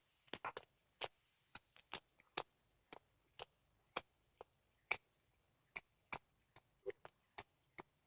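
A cat chewing on a squirrel carcass: short, sharp crunches of teeth on bone and gristle, about two a second at an uneven pace.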